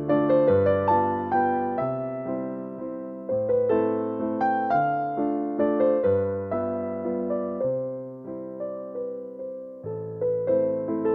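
Background music played on an electric piano: a gentle melody of struck notes, each fading away, over held bass notes.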